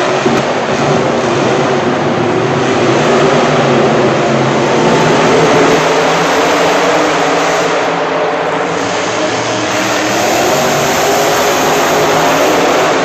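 Monster truck engine running loudly, its pitch wavering up and down as it is revved.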